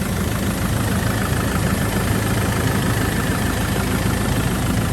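2008 Land Rover Defender 90's 2.4 TDCi four-cylinder turbodiesel idling steadily. An extra sound-deadening blanket over the engine makes it a bit quieter than standard.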